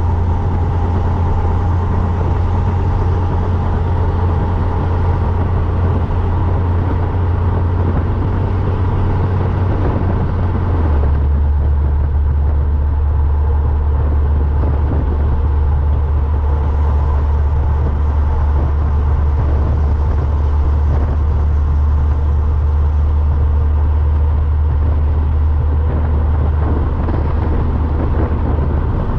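Car with a freshly swapped engine driving along, its engine and exhaust making a steady low drone over road noise; the drone drops a little lower about eleven seconds in.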